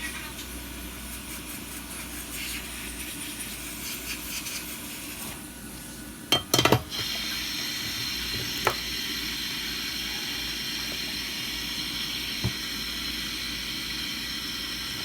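Small hard objects clicking and clinking on a work surface, a quick cluster about six and a half seconds in and single ticks about two and six seconds later, over a steady hiss.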